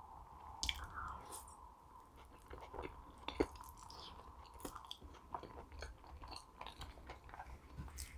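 Close-miked chewing of food with many small, irregular wet mouth clicks, and one louder click about three and a half seconds in.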